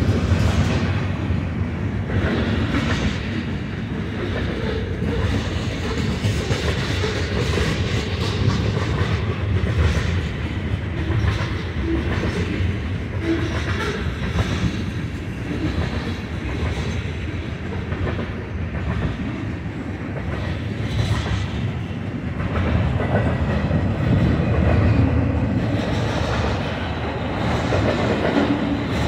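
BNSF intermodal freight train's double-stack container cars and trailer flatcars rolling past: a steady rumble of steel wheels on the rails with a repeating clickety-clack.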